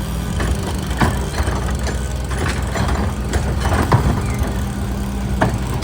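Garbage truck's diesel engine running steadily, with several sharp clanks and knocks over it.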